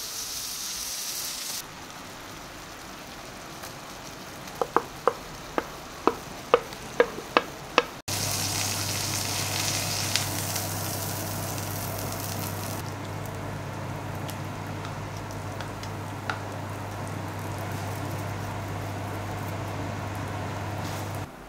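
Food sizzling as it fries in a pan. Partway in comes a run of about ten sharp clicks, each following the last more quickly. After that a steady low hum runs under the sizzle.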